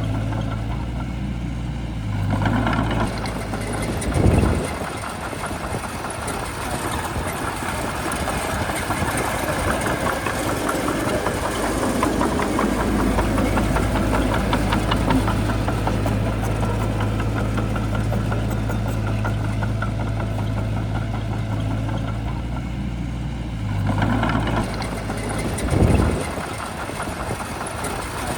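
Diesel engine of a Shantui bulldozer running steadily, with two brief louder surges, about four seconds in and again near the end.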